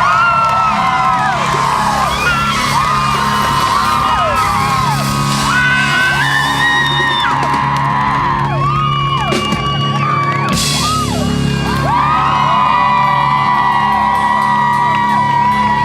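Loud live band music with steady bass notes, as the crowd whoops and yells over it.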